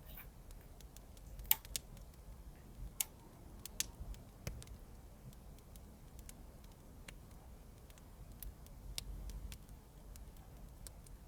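Fireplace crackling: irregular sharp pops and ticks over a low steady rumble, with a few louder pops in the first half.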